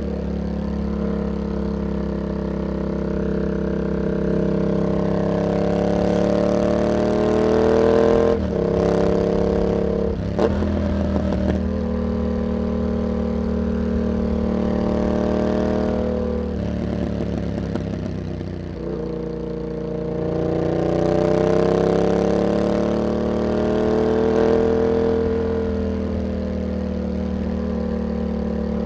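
Yamaha MT-07's 689 cc parallel-twin engine through an aftermarket carbon hexagon exhaust with dB killer, pulling along a winding road. The pitch rises and falls with the throttle. About 8 seconds in the note cuts off sharply with a few clicks, then climbs again. It dips near 19 seconds and rises again after.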